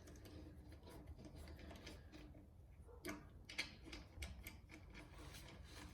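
Faint scattered metallic clicks and taps of lug nuts being started by hand on the wheel studs, with the clearest taps about three seconds in.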